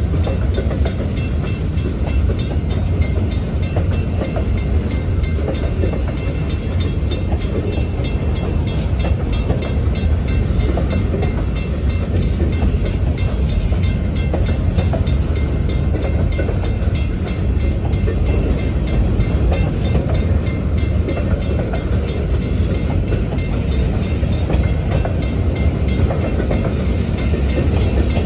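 New York and Atlantic Railway freight train rolling steadily past, a continuous loud rumble of wheels on rail that stays even throughout.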